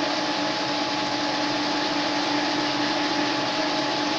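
Metal lathe running steadily while turning a part to size: a steady machine hum with two held tones over an even hiss.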